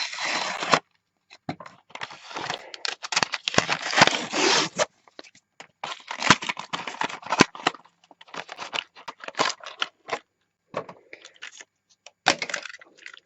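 Toy packaging being torn open by hand, in repeated bursts of tearing and scraping with short pauses between.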